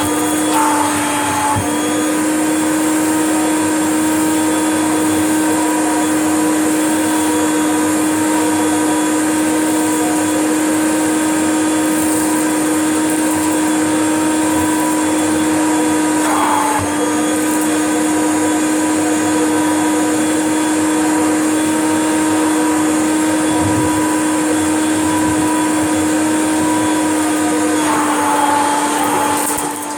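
Upright vacuum cleaner running steadily with a strong motor hum, its pitch dipping briefly three times as the load changes.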